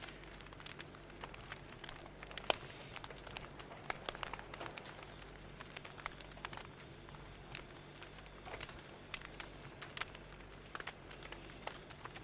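Fire crackling steadily, with irregular sharp pops and snaps over a faint low hum.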